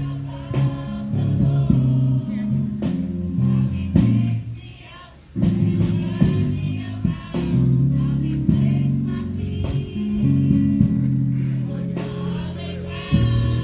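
Gospel-style singing with instrumental accompaniment. The music drops away briefly about four and a half seconds in, then comes back in full about a second later.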